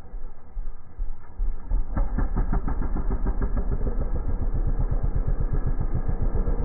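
Dirt bike engine running at idle with fast, even firing pulses. It gets louder about two seconds in and then holds steady.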